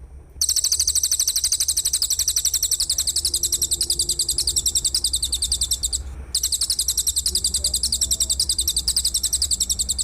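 A singing insect's loud, rapid pulsing trill, about a dozen even pulses a second and high in pitch, broken by a short gap about six seconds in before it resumes.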